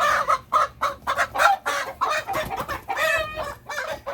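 Rhode Island Red hen squawking and clucking in a rapid run of loud, agitated calls, upset at being picked up and handled.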